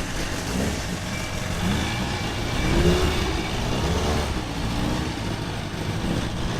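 A car engine revving up briefly about three seconds in, over a steady low drone that fits the paddock's generator.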